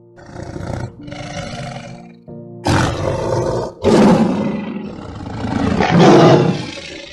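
A large animal roaring in four loud, rough calls, the first three about a second each and the last longer with two swells. Soft background music sounds between the calls.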